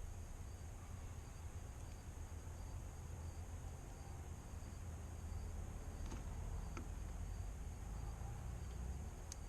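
Crickets chirping in an even, repeating high pulse over a low steady rumble, with a few faint clicks.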